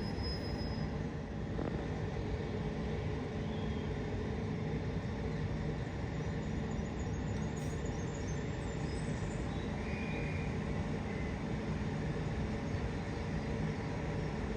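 Steady low rumbling vehicle noise with a faint hum.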